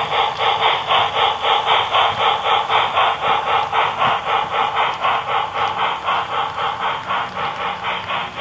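Onboard sound of an HO-scale model locomotive running: a steady, even engine pulse at about four to five beats a second, growing slightly quieter in the second half.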